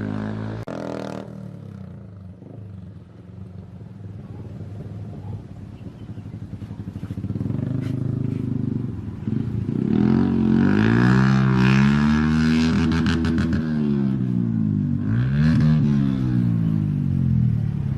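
Restored old motorcycle engine idling, then revved up and held high for a few seconds before easing back down, with a short blip of the throttle near the end.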